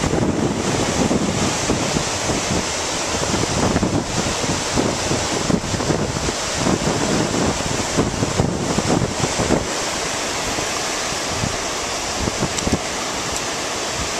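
Wind buffeting the microphone over the rush of ocean surf breaking on a beach. The gusts ease about two-thirds of the way through, leaving a steadier rush.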